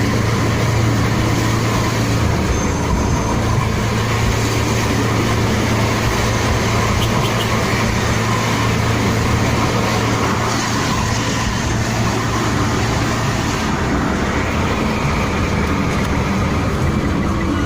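Steady road roar of vehicles travelling at highway speed, with a low engine drone that drops away about 14 seconds in.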